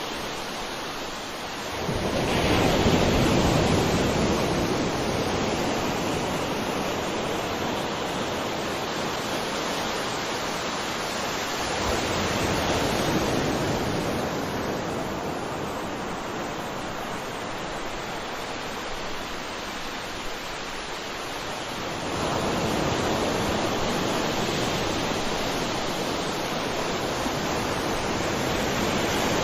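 Sea waves breaking, a steady rushing wash of surf. Three waves swell in about ten seconds apart, the first the loudest.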